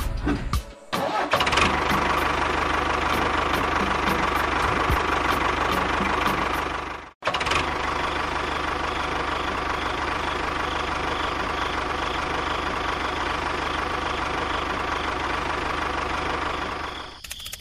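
Tractor engine running steadily at idle, with a momentary break about seven seconds in and fading out near the end.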